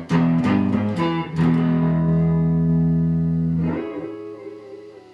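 Guitar music: a few chords struck in quick succession, then one chord held and left to ring, fading away from about four seconds in.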